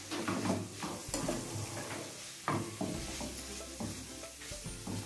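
Shredded cabbage sizzling as it sautés in a steel frying pan, stirred and scraped with a wooden spatula in several short strokes.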